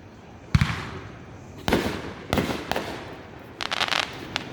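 Fireworks going off: four sharp booms, each ringing out briefly, about half a second to a second apart, then a quick burst of crackling near the end.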